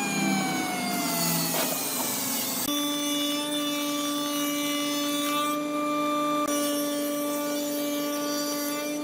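A woodworking power machine running with a steady whine. For the first two and a half seconds it cuts wood with a rasping sound while its pitch slowly falls, then it runs on at one steady pitch.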